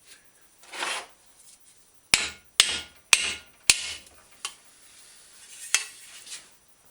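Wood-on-wood pounding on a dented chrome bicycle fender to work the dents out: four sharp knocks about half a second apart, then two lighter ones. A brief rustle comes first, about a second in.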